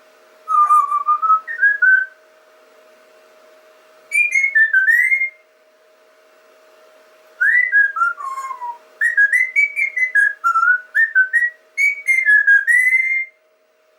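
Whistling in several short, warbling phrases that glide up and down in pitch; the longest phrase comes near the end. A faint steady hum lies underneath.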